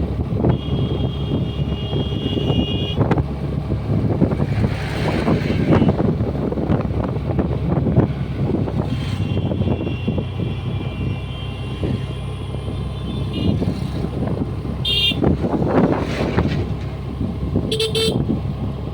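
Honda Dio 125 scooter's single-cylinder engine running under way, with road and wind noise. A vehicle horn sounds twice, for about two seconds near the start and for about four seconds in the middle. Two short high-pitched bursts follow near the end.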